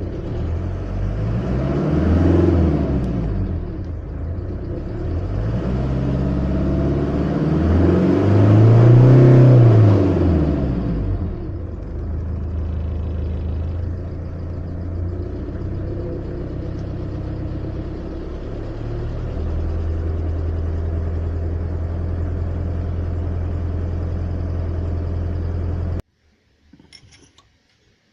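Mercedes OM601 2.3-litre four-cylinder diesel engine idling, revved up twice and let fall back to idle, then held at a steady idle; the engine has a knock, the fault under investigation. The sound cuts off suddenly near the end.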